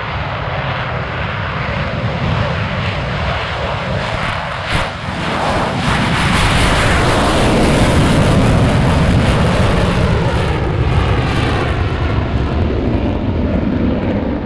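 F/A-18 Super Hornet's twin afterburning turbofan engines at full thrust, a loud jet roar that swells to its loudest around the middle and then eases slightly.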